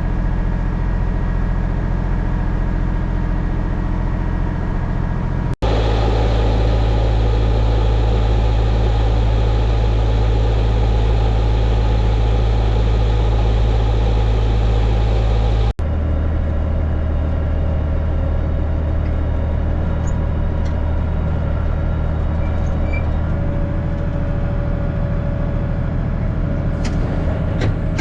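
Tractor engine running steadily. It is heard in three stretches that change abruptly about six and sixteen seconds in, each with its own steady engine pitch.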